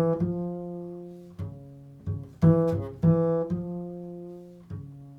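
Improvised music on a plucked string instrument: single low-to-mid notes struck one after another at an unhurried pace, each ringing on and slowly dying away. The last note, near the end, fades out.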